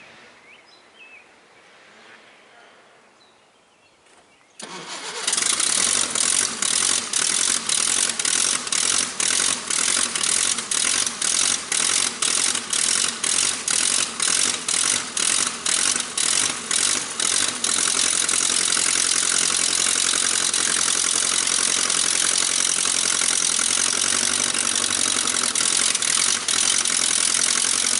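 1956 Case 310 tractor engine starting after a few quiet seconds: cranked over with an even pulsing of about two or three beats a second for some twelve seconds, then catching and running steadily.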